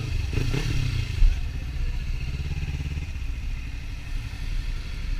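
Kawasaki Ninja 300 parallel-twin engine running under way at fairly steady revs, a little quieter after about three seconds.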